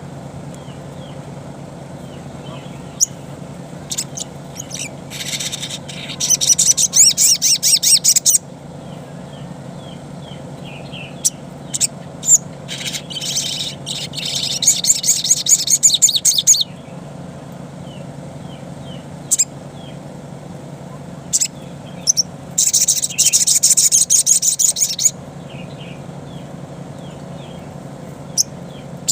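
Ruby-cheeked sunbird (sogon) singing in its wild style: three loud runs of rapid, high, chattering notes, each two to three seconds long, with single sharp chips between them. A steady low hum lies underneath.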